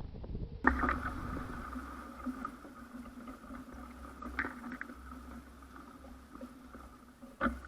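Water splashing and sloshing in a small container pond as a bird bathes, picked up by a trail camera's microphone over its steady electronic hum. A few sharp knocks or splashes stand out, one just after the start, one about halfway through and one near the end.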